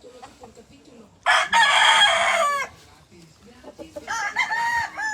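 Two gamefowl roosters crowing one after the other. A loud crow starts about a second in, lasts about a second and a half and ends with a falling tail; a second, quieter crow follows about four seconds in.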